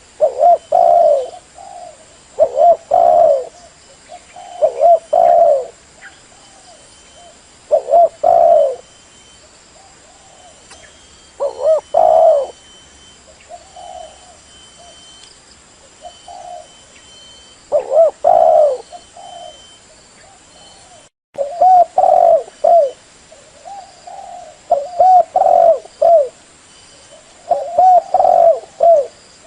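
Female spotted dove cooing: short low coo notes in quick bunches, repeated every second or two with softer notes between. It is the female's call that stirs up a male.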